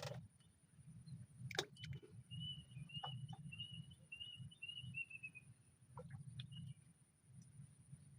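A bird calling faintly: a string of short high chirps lasting about three seconds, the last few dropping in pitch, with a few scattered clicks and knocks around it.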